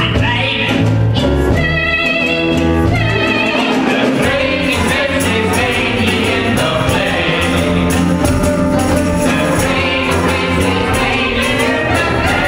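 Live stage musical number: an orchestra playing a show tune while voices sing, with wavering sung notes early on and a quick steady beat from about four seconds in.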